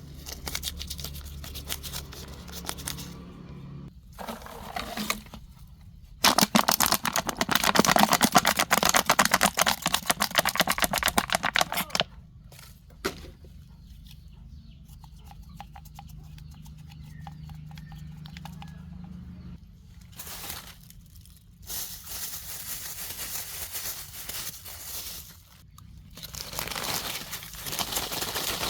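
Plastic trash crinkling and rustling as it is handled and gathered, in irregular spells. The loudest, densest crackling comes over several seconds in the first half.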